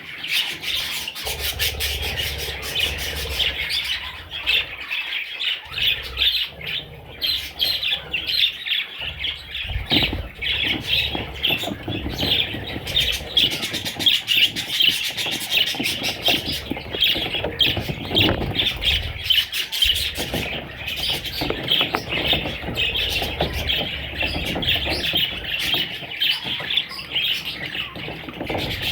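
A flock of budgerigars chattering, with many quick overlapping chirps running on without a break.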